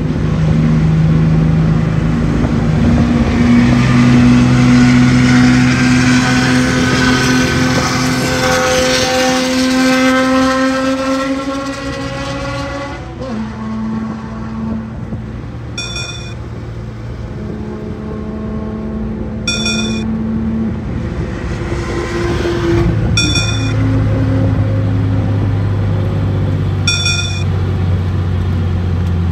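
Porsche 996's flat-six engine heard from inside the cabin, its pitch rising steadily for about thirteen seconds, then dropping at a gear change and running steadier as the car slows. From about sixteen seconds a short, high electronic beep sounds every three and a half seconds or so.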